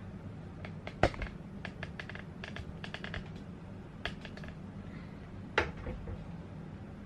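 Household items being handled and set down, a scatter of light clicks and knocks with two louder knocks, about one second in and about five and a half seconds in, over a steady low hum.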